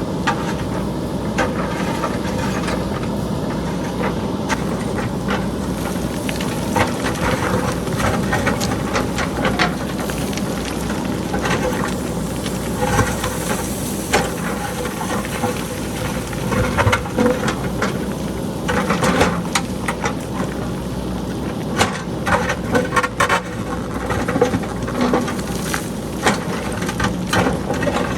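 JCB backhoe loader's diesel engine running steadily while boulders and pebbles clatter down the hillside in sharp, irregular knocks, growing thicker from about halfway through.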